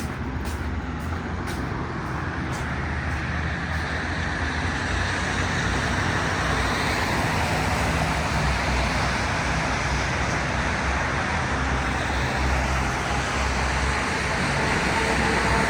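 Road traffic on a wet city street: tyres hissing on wet pavement over a low engine rumble, growing steadily louder as vehicles pass.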